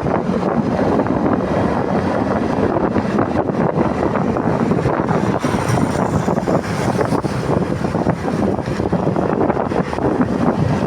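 Wind buffeting the microphone of a camera on a moving motorcycle, a loud steady rushing, with the motorcycle's engine running underneath.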